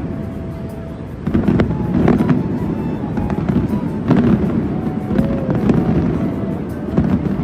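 Fireworks display: a continuous run of booms and crackling bangs over crowd noise, growing louder about a second in.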